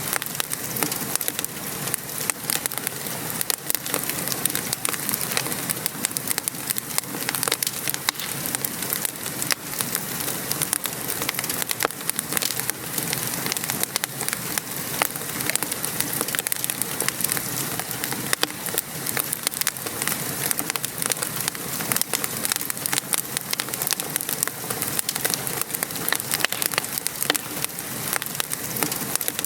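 Steady rain falling, mixed with a wood fire crackling in a fireplace: many small sharp pops and snaps over an even patter.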